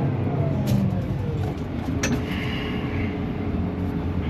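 Large John Deere tractor's diesel engine running, its pitch falling over the first second or so as the revs ease off once the stuck tractor has come free.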